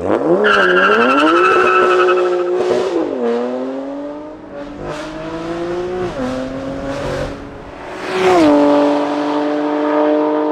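BMW M3/M4 S55 twin-turbo inline-six through a titanium equal-length valved exhaust, accelerating through the gears: the pitch climbs and drops at upshifts about three, six and eight seconds in, then holds steady. A high squeal sounds over the first two seconds.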